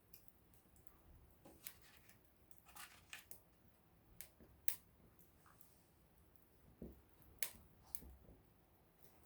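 Small wood campfire crackling: irregular sharp pops and snaps over a quiet background, the strongest pops about four and a half and seven and a half seconds in.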